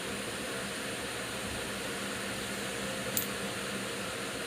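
Steady background whooshing noise with a faint hum, and one small sharp click about three seconds in.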